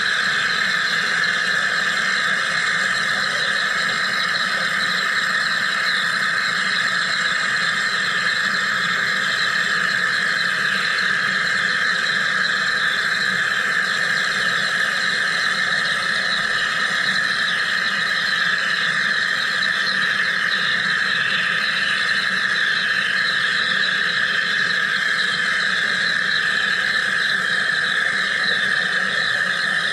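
Wire EDM machine running, a steady hissing buzz that holds unchanged throughout.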